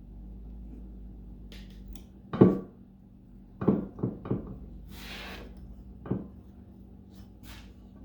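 Metal gearbox parts knocking and clanking as they are handled on a workbench, about five separate knocks, with a brief scraping hiss in the middle over a low steady hum.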